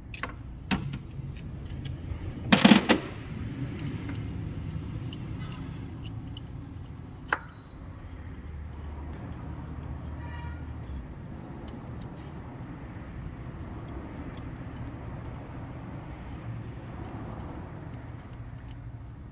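Hand tools and metal engine parts knocking and clinking during engine work: a loud clatter of knocks about two and a half seconds in, one sharp knock near seven seconds, and scattered small clicks over a steady low hum.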